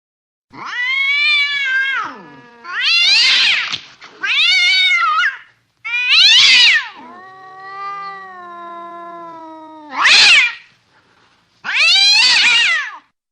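Domestic cats yowling in a fight standoff: a string of loud caterwauls, each about a second long, rising and falling in pitch. About halfway through comes a longer, lower, drawn-out moan with a low growl under it.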